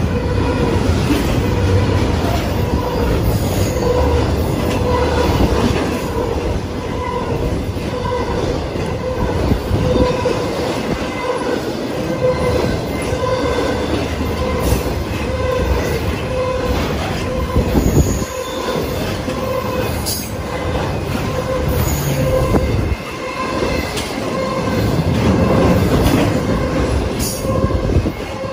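Intermodal freight cars rolling past at close range, double-stack container cars and then trailer-carrying flatcars: a steady heavy rumble with wheel clatter and a faint tone that pulses about once a second.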